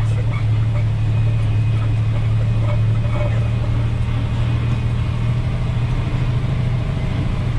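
A log truck's diesel engine running with a steady low drone.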